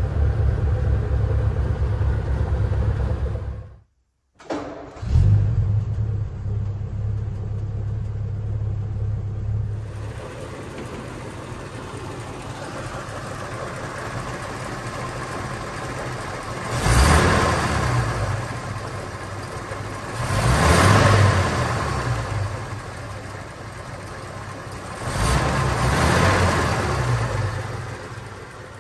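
1934 Packard Eight's straight-eight engine running just after a cold start, idling fast on a set hand throttle; the sound breaks off briefly about four seconds in. Later the engine is revved three times, each a short rise and fall in revs.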